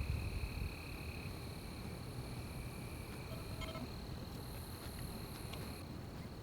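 Night forest ambience: insects chirring steadily at several high pitches over a low rumble, with a brief pitched call about three and a half seconds in.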